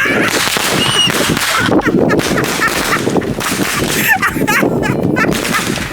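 Fireworks going off with a dense run of pops and crackles, while children shriek and yell.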